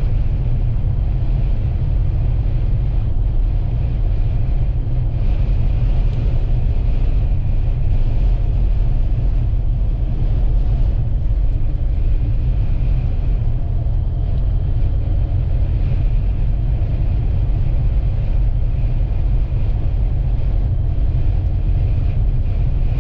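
Steady low rumble of a vehicle driving on the highway, heard from inside the cab: engine and tyre noise.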